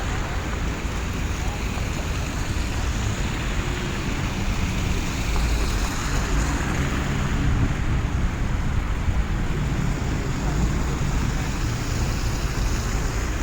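Blizzard wind buffeting a phone's microphone: a steady low rumble with a hiss over it, swelling a little in gusts about halfway through.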